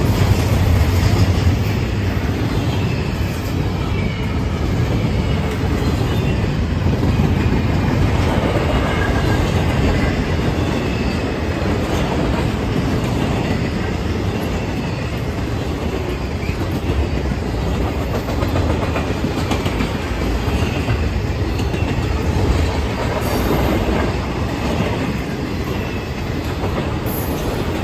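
Intermodal freight train of double-stack container and trailer well cars passing close by, its steel wheels rolling over the rails in a steady, unbroken run.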